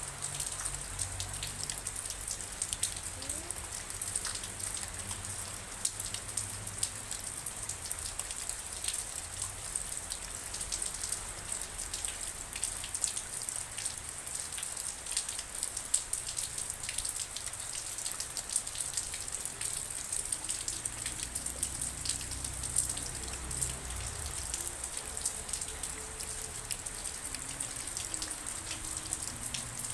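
Steady rain falling, with many separate drops striking a surface in an unbroken, even stream.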